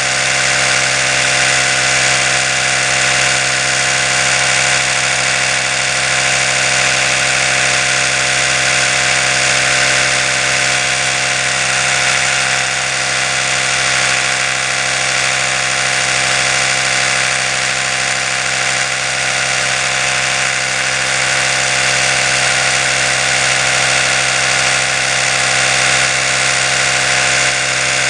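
Electric toothbrush motor running continuously: a steady buzzing hum with a bright hiss, unchanging throughout.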